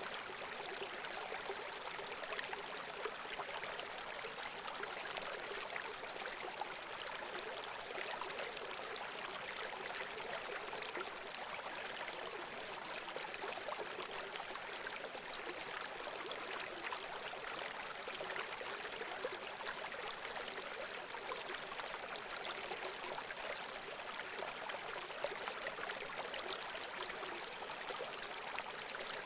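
Running water flowing steadily, an even rushing hiss like a small stream or cascade.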